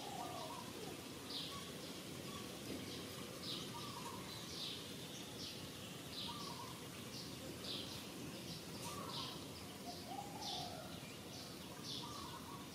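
Birds calling outdoors: short high chirps about once or twice a second, with a lower rising-and-falling call every few seconds, over a faint steady background hiss.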